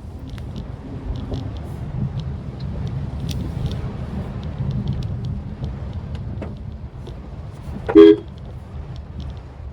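Steady low rumble of a Maruti Suzuki Swift Dzire driving on the road, with scattered faint ticks. About eight seconds in, a car horn gives one short, loud toot.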